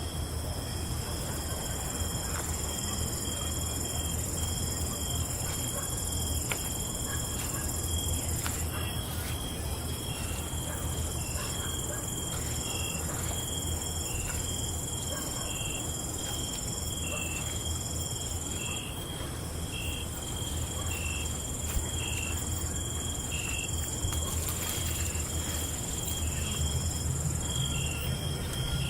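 Night insects such as crickets trilling steadily in several high voices. One repeats a short chirp about once a second, over a steady low rumble.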